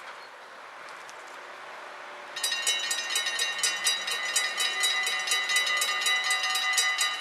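A railway level-crossing warning bell starts suddenly about two and a half seconds in and rings rapidly and evenly, about five strokes a second. Under it, the rumble of the approaching train grows louder.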